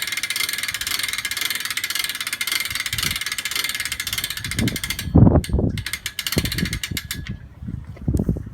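Hand winch being cranked, its ratchet clicking rapidly and evenly as it hoists an E-One grinder pump. About five seconds in the cranking stops and a few low thumps and knocks follow.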